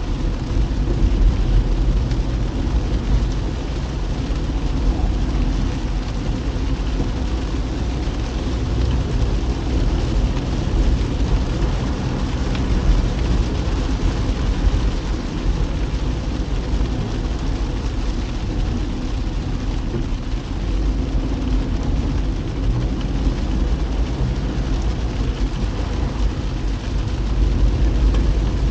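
A car driving on a wet road in the rain: steady low road and engine rumble with a hiss of tyres and rain.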